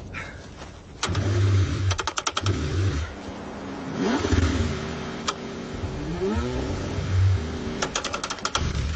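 A car engine struggling through a cold start, cranking and catching in bursts. Revs rise and fall, with a run of rapid clattering ticks about a second in.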